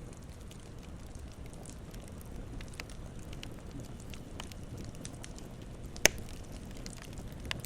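Campfire burning steadily with a low rumble and scattered small crackles, and one loud sharp pop about six seconds in, with a smaller pop near the end.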